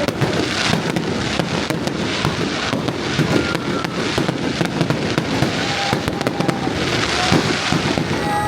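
Fireworks going off without a break: a dense, continuous run of crackling pops and bangs.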